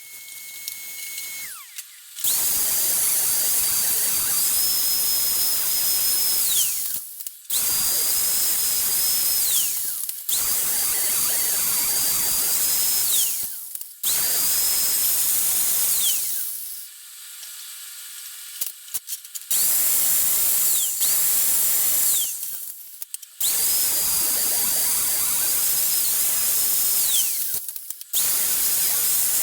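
Handheld power tool run in repeated bursts of three to four seconds, about seven times. Each burst is a high steady whine over a harsh hiss, and the whine drops away as the tool spins down after each release.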